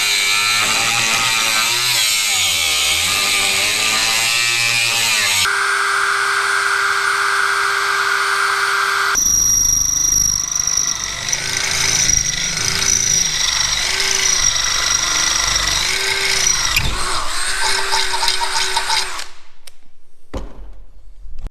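A power tool running in several long stretches, its pitch rising and falling in repeated swoops, stopping about nineteen seconds in.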